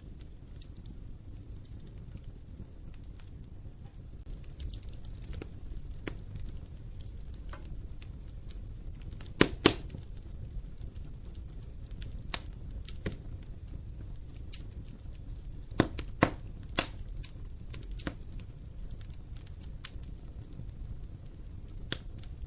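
Wood fire burning in an open fireplace: a steady low rumble of the flames with scattered crackles and sharp pops, the loudest a pair of pops about nine seconds in and a cluster around sixteen seconds in.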